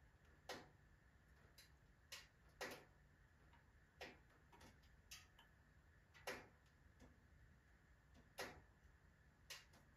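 Firewood burning in a wood stove, crackling with sharp, irregularly spaced pops, about ten of them, a couple stronger than the rest.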